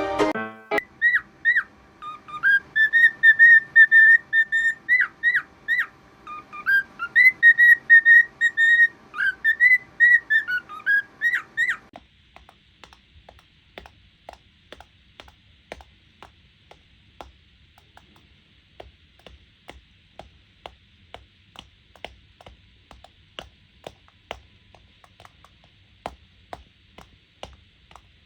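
Cockatiel whistling a tune: a run of clear whistled notes with quick upward and downward slides, lasting about twelve seconds. It then cuts to faint, irregular clicks and taps over a low hiss.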